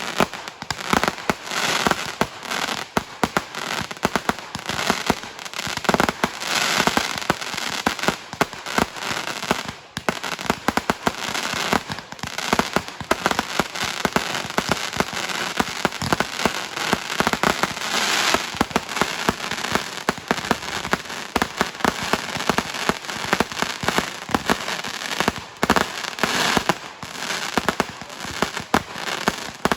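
Fireworks going off in a rapid, unbroken barrage of sharp bangs and crackling, several reports a second, with denser crackling flurries a few times.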